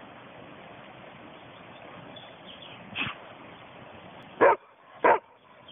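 Dog barking: a short, quieter bark about three seconds in, then two loud barks near the end, about half a second apart, over a steady outdoor hiss.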